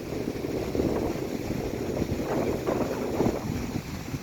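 Strong wind buffeting the microphone, a gusty low rumble that rises and falls.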